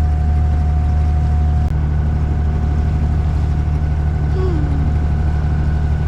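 A boat's engine running steadily, a constant low hum.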